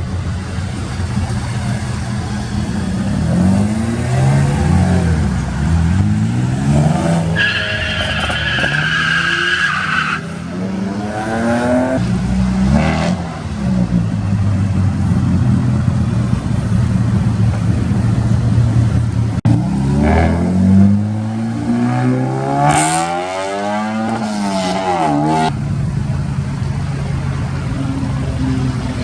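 Car engines revving and accelerating, pitch rising and falling again and again, with a high tyre squeal lasting about three seconds near eight seconds in.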